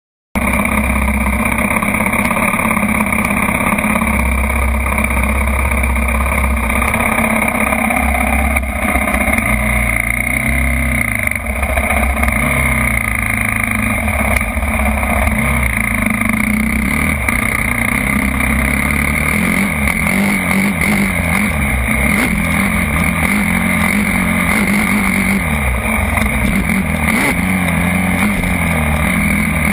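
Motocross motorcycle engine revving up and down over and over, its pitch rising and falling every second or two, starting suddenly just after the start.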